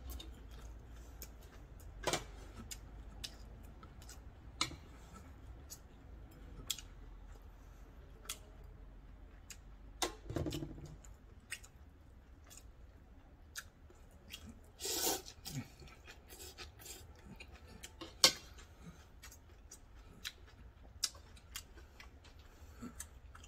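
Close-up mouth sounds of a person chewing noodles and gimbap, with scattered sharp clicks of metal chopsticks against the pot and dishes; the loudest click comes near the end.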